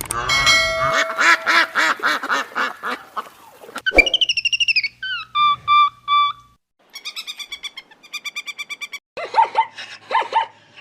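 Bird calls from several separate clips spliced one after another, each starting and stopping abruptly. There are quick repeated chirps, a warbling call with gliding notes, evenly spaced repeated notes, and a fast trill.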